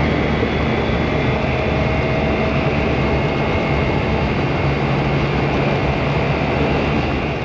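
Polaris Ranger side-by-side's engine running steadily, with a faint high whine above the low engine note.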